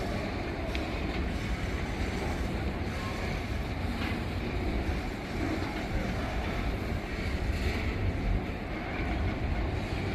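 Freight train rolling past, a steady rumble of wagon wheels on the rails with a few faint clicks.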